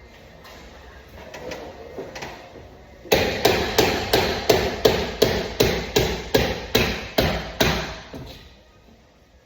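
Hammer blows in a quick steady rhythm, about three a second, starting loud about three seconds in after a few lighter taps and stopping near the end.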